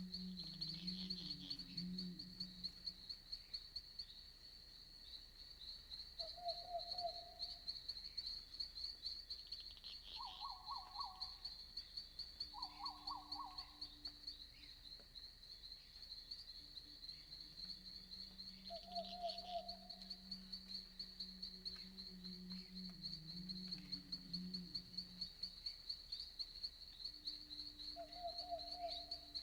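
Night forest ambience: a steady, fast-pulsing insect chorus like crickets, with short pulsed calls every few seconds. Long low hooting calls sound at the start and again from about two-thirds of the way in.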